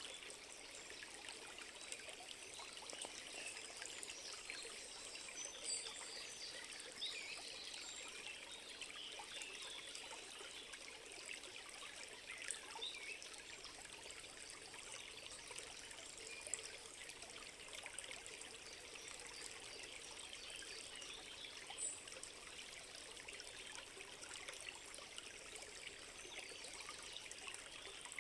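A small stream trickling and babbling steadily, heard faintly.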